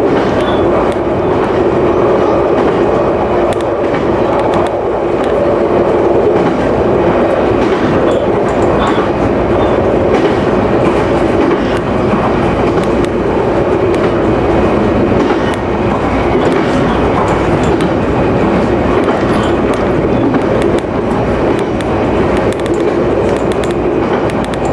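JR Nikkō Line local electric train running along the track, heard from inside at the front of the train: a steady rolling rumble with faint scattered clicks of the wheels on the rails.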